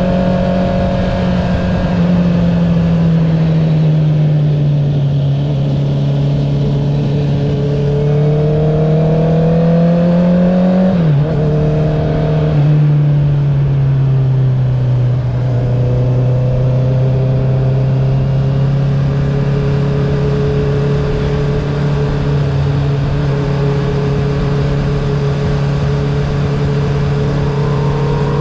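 Honda CB650R inline-four running through an Akrapovic titanium full-system exhaust with the dB killer removed. Its pitch dips about two seconds in and climbs slowly under throttle. It drops sharply about eleven seconds in, then settles into a steady, slightly lower note.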